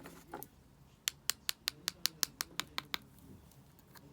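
Kinetic sand being worked with a tool: a quick run of about a dozen crisp clicks, roughly seven a second, starting about a second in and stopping about two seconds later.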